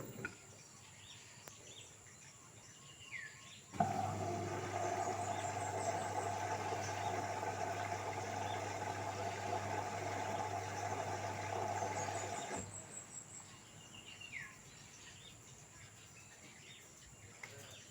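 Birds chirping with short falling calls. About four seconds in, a louder steady hum with a rushing noise starts abruptly, drowns them out, and cuts off suddenly some nine seconds later.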